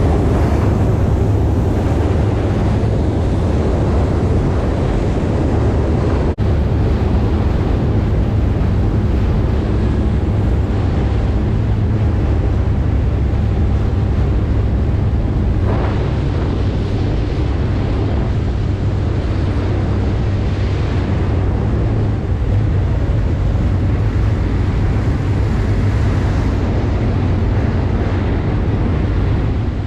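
Kawasaki Ultra 310 LX-S jet ski's supercharged four-cylinder engine running steadily under way, with wind buffeting the microphone and water rushing past the hull.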